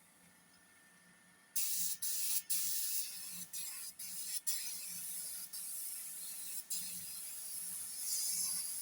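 Paint spray gun spraying paint: a strong hiss that starts suddenly about a second and a half in and cuts out briefly several times as the trigger is let off and pulled again.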